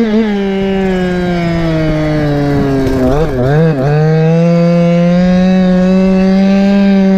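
Goped scooter's small two-stroke engine, a Chongyang CY26 from an HPI 5th-scale RC car, buzzing under way. The revs sag over the first three seconds, blip up and down quickly a few times about three and a half seconds in, then climb back and hold steady.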